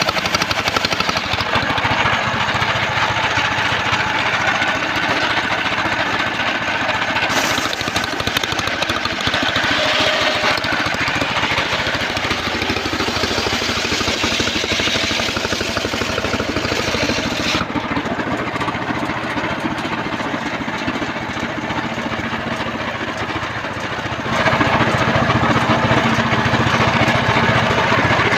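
Home-built portable circular sawmill running loudly, its engine and blade sound shifting several times as it works through trembesi timber. It grows louder near the end.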